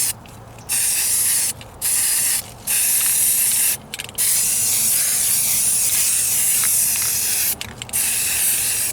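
Aerosol spray can of primer spraying in about six bursts of hiss with short pauses between, the longest lasting about three seconds; a heavy coat is being laid on.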